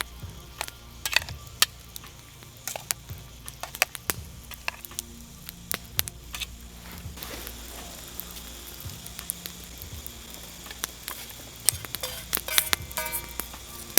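Food sizzling in a pan over a campfire, with many sharp crackles and clicks; the sizzle grows fuller about halfway through.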